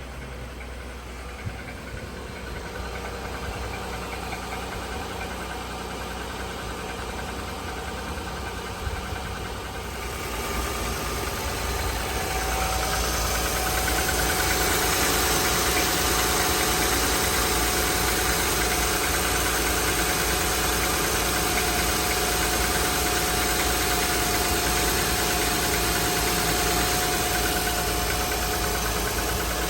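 2007 Honda Pilot's 3.5-litre V6 idling cold in very cold weather, with a ticking, knocking noise that the owner cannot identify and that fades as the engine warms. The sound grows louder about ten seconds in, and a steady whine joins it soon after.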